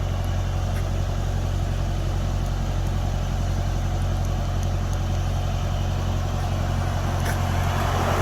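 Diesel engine of a trailer refrigeration (reefer) unit running steadily, an even low drone.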